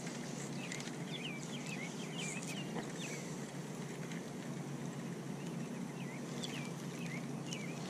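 Small birds chirping repeatedly in short, quick notes that glide up and down in pitch, over a steady low background noise.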